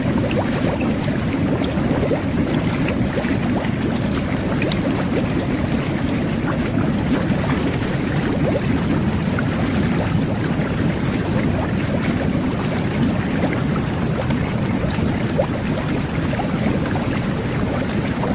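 Whirlpool jet bath running, its jets churning the bathwater: a steady, dense rush of bubbling water with small brief pops and splashes scattered through it.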